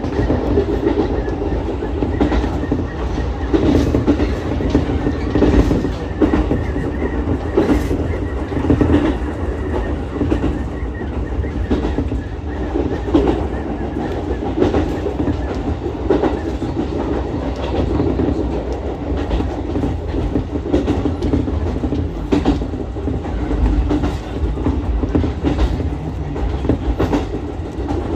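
Ichibata Electric Railway 7000-series electric railcar running at speed, heard from inside the car: a steady rumbling running noise with wheels clicking over rail joints at uneven intervals.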